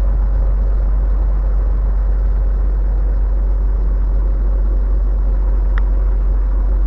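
Truck's engine and road noise heard inside the cab while driving, a steady low drone with a faint steady hum. A light click about six seconds in.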